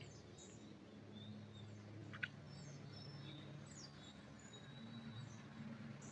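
Small birds chirping faintly, with many short high calls and thin whistles scattered throughout, over a low steady hum. A single sharp click about two seconds in.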